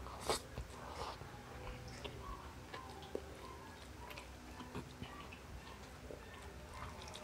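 Close-up chewing of a mouthful of rice eaten by hand: soft, scattered small mouth clicks and ticks, with one sharper click just after it begins.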